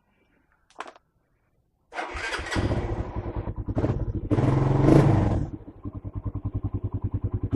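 Suzuki Satria FU 150 single-cylinder engine started about two seconds in after a short click, catching at once and revved a couple of times, then idling with an even pulse through its newly fitted stock exhaust.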